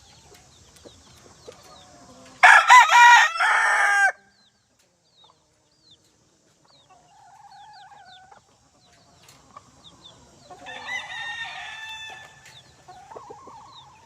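Gamefowl roosters crowing: one loud crow starting about two and a half seconds in, and a second, quieter crow near the end. Faint short chirps sound in between.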